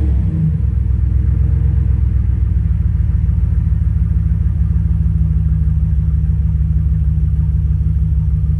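2001 Dodge Ram 2500 engine idling steadily through a muffler-deleted exhaust, a loud, even low rumble.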